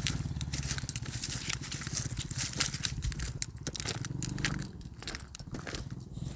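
A 110cc pit bike's single-cylinder four-stroke engine running at a distance, swelling briefly and then dropping away about three-quarters through. Dense crunching and crackling noises run throughout.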